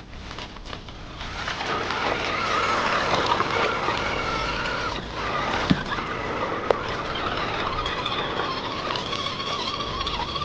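Radio-controlled scale off-road model driving: a wavering electric-motor and gearbox whine over a steady noisy hiss, building up over the first couple of seconds, with two sharp clicks in the middle.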